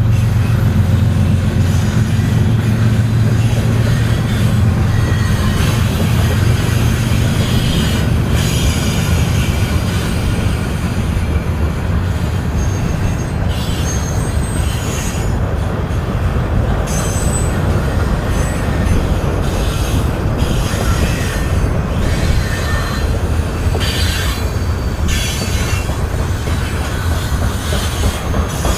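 Union Pacific freight train passing close by: the diesel locomotives' low engine drone is strong at first and fades after about five seconds, leaving the steady rumble of the cars rolling past with short high wheel squeals here and there.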